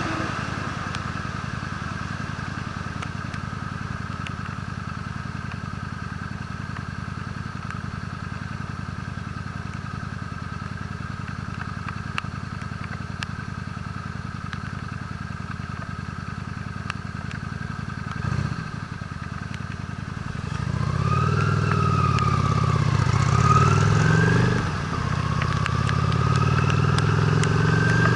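Honda Steed's V-twin motorcycle engine running steadily at low revs, then from about twenty seconds in getting louder and revving up and down as the bike accelerates through gear changes.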